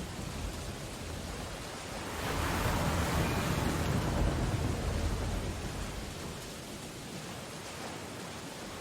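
Steady rain on window glass over stormy ocean surf; about two seconds in, a wave breaks in a louder swell that ebbs away by about six seconds.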